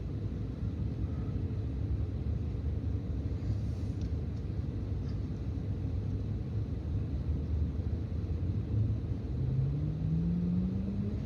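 Steady low road and engine rumble heard inside a moving car's cabin, with an engine note rising in pitch near the end.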